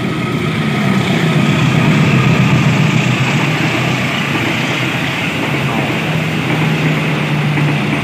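A diesel locomotive hauling a passenger train passes at speed: its engine hum is loudest about two seconds in, then the coaches rumble by on the rails.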